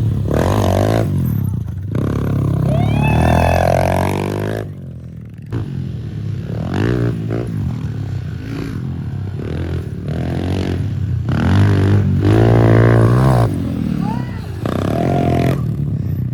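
Small single-cylinder dirt bike engine revving up and easing off over and over, as on a rider working the throttle through a dirt track's jumps and corners.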